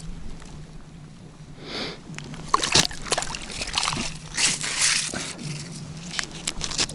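Water and slush sloshing and splashing in an ice-fishing hole, starting about two and a half seconds in as an irregular run of wet splashes and sharp clicks.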